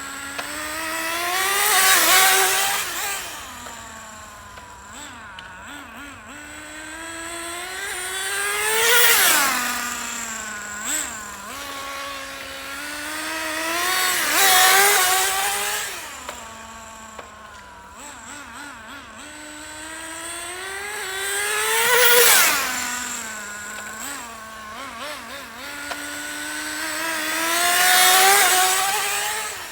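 Nitro RC car's SH-18 two-stroke glow engine being run in, revving up toward full throttle and easing off again and again. It swells and fades five times as the car laps past, the pitch dropping sharply after each peak. This is a break-in run on nitro fuel: gradual acceleration to full throttle, then braking.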